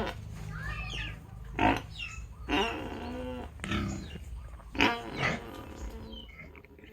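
Black pig grunting, about five short grunts roughly a second apart.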